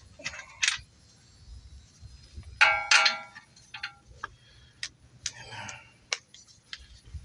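Metal tools clinking and clanking against front-suspension parts while a tie rod end is being taken off, with one louder ringing clang about two and a half seconds in and scattered sharp ticks around it.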